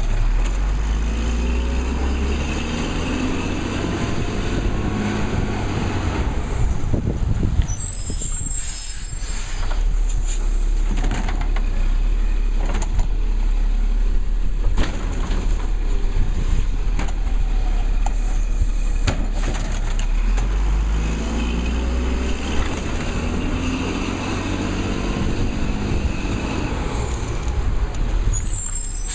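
Labrie Cool Hand garbage truck's diesel engine running. It revs up twice for several seconds at a time, with a high whine rising and falling over each rev-up, typical of the hydraulics working a cycle. There are short air-brake hisses about eight seconds in and near the end.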